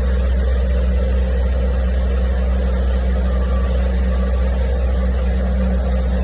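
Vehicle engine idling with a steady, deep hum.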